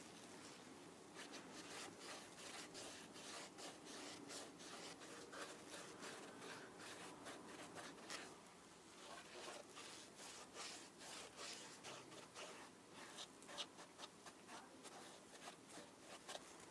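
Faint, quick rubbing strokes, several a second, with a short pause about eight seconds in: something being scrubbed or rubbed by hand on a sneaker.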